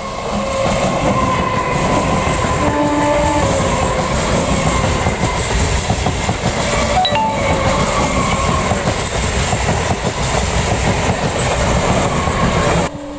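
Electric suburban local train (EMU) running past close by: a loud, steady rush of wheels and running gear on the track that cuts off suddenly near the end.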